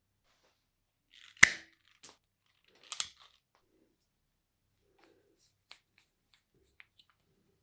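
Sharp clicks and snaps from handling small hard objects: one loud snap about a second and a half in, a double click around three seconds, then a few faint ticks near the end.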